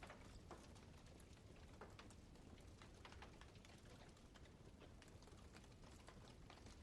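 Campfire crackling: wood burning with many small, irregular snaps and pops over a faint steady hiss.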